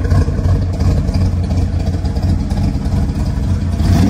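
Custom hot rod 383 V8 idling with a deep, steady exhaust note through side-exit pipes, with a brief rev blip near the end.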